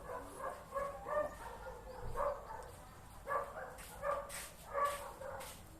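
A dog yipping and whining in short repeated calls, with a few sharp clicks in the second half.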